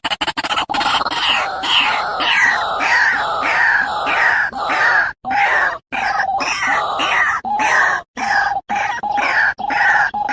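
White-breasted waterhen (dahuk) calling: loud, croaking notes repeated about twice a second, each falling in pitch.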